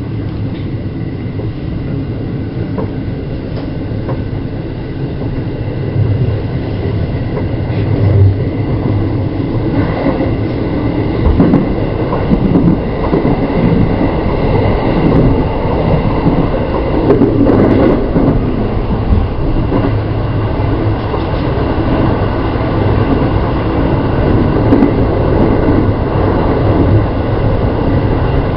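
Running noise of a JR West 223 series electric train heard from on board: steady rumble of wheels on rail with a few clicks, getting louder about six seconds in and staying louder.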